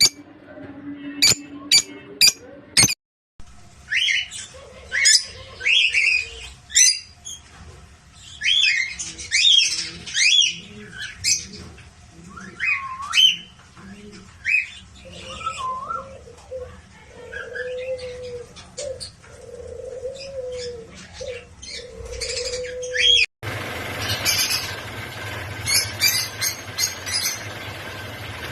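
Lovebirds chirping and squawking: many short, high calls that sweep up and down in pitch, with a run of lower, repeated calls in the middle. A few sharp clicks come in the first seconds, and a steady hiss sits under the calls near the end.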